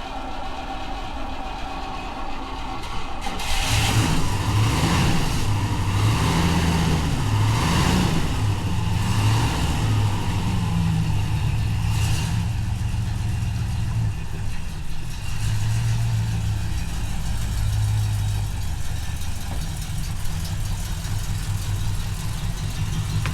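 Rover P5B's 3.5-litre V8 engine running, getting louder about three and a half seconds in as the car pulls away, its note rising and falling as it accelerates.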